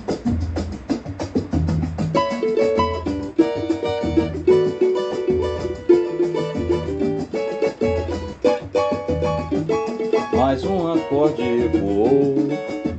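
Samba intro: a cavaquinho strums and picks a melody over a pulsing bass line and light percussion. A singing voice comes in about ten seconds in.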